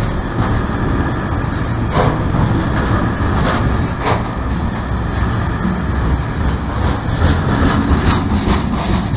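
Freight train of bogie hopper wagons rolling slowly past close by. A steady low rumble of wheels on rail, with a few sharp clicks.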